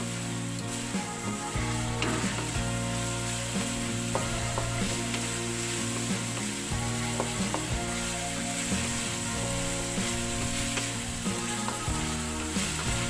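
Minced garlic, onion and bay leaves sizzling in hot oil in a metal wok, with the occasional scrape and knock of a wooden spatula stirring them.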